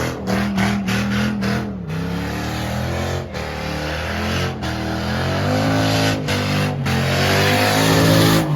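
Car engine revving hard, its pitch climbing and falling again several times, with a few brief drop-outs in the first two seconds.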